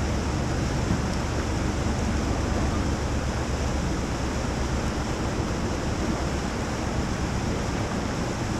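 Steady rushing of whitewater river rapids, an even roar with no breaks.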